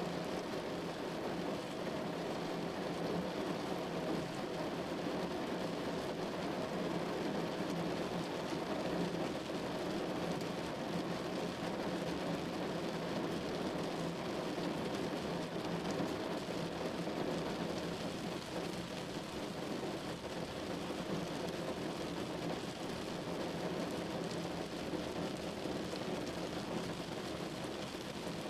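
Steady rain falling on a window: an even, unbroken hiss with no single louder drops or thunder standing out.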